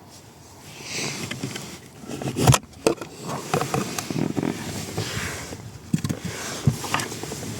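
Handling noises of work under a car dashboard: irregular knocks, clicks and rustling, with one sharp knock about two and a half seconds in.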